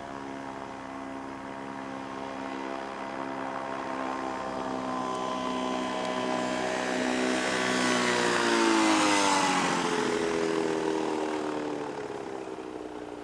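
Ultralight airplane's engine and propeller flying past: it grows louder as it approaches, is loudest about nine seconds in, and its pitch drops as it passes, then it fades away.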